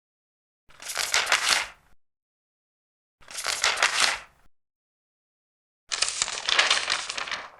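Large paper pages being turned: three rustling page turns about two and a half seconds apart, each lasting over a second, with dead silence between them.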